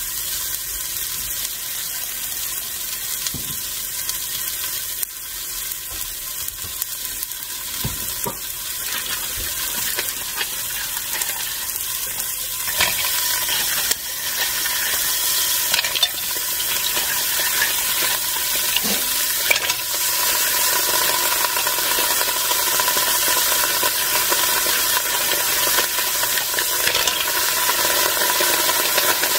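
Food frying in hot oil in a pan: a steady sizzle that grows gradually louder, with a few scattered clicks.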